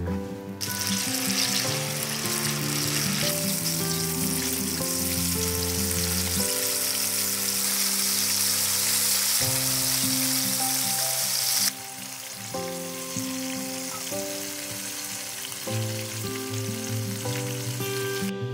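Food sizzling as it fries in hot oil, over gentle background music. The sizzle starts abruptly just after the start, drops a little about two-thirds through, and cuts off just before the end.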